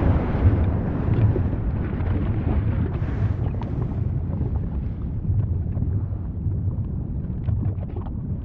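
Volcano rumbling: a steady deep rumble, with a higher rushing sound that dies away over the first few seconds and faint scattered crackles later.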